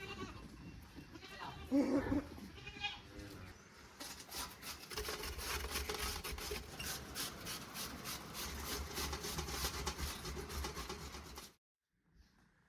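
A goat bleats once or twice about two seconds in. From about four seconds a dense, rapid crackle of clicks and rustling takes over, then cuts off abruptly near the end.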